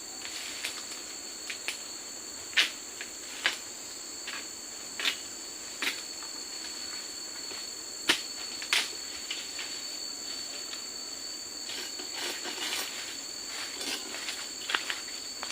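Steady high-pitched drone of forest insects, two unbroken tones, with about a dozen sharp clicks and knocks scattered irregularly over it, the loudest about two and a half and eight seconds in.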